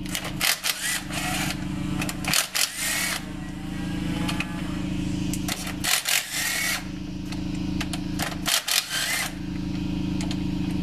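A machine motor humming steadily, broken four times by short bursts of clattering, scraping noise.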